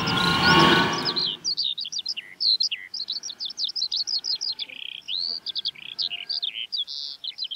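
Songbirds chirping in a quick, continuous high-pitched run, opening under a whooshing noise that fades out over the first second and a half.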